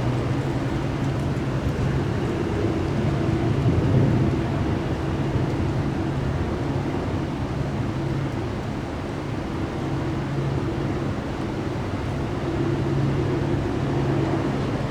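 Steady rushing noise of thunderstorm wind and rain, with a steady low hum underneath.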